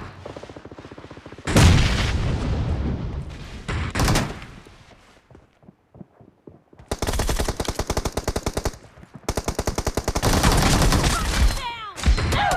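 Automatic gunfire in a shooter video game: long bursts of rapid machine-gun fire, a lull about five seconds in, then two more long bursts.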